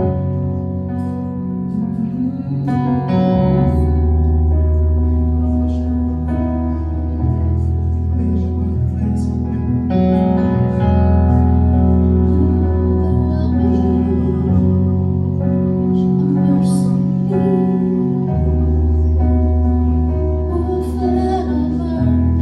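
Live worship band playing a slow instrumental passage: sustained chords over a deep bass, changing every few seconds, with light guitar notes on top.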